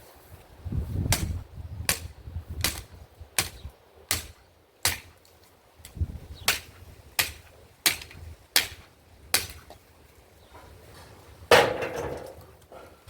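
Firewood being chopped: a run of about a dozen sharp blows of a blade into wood, a bit more than one a second, then a pause and one louder blow near the end.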